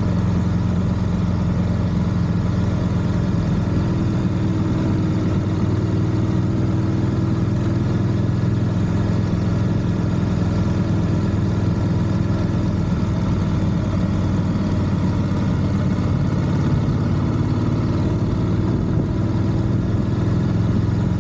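A vehicle engine running steadily at an even speed, its pitch shifting only slightly.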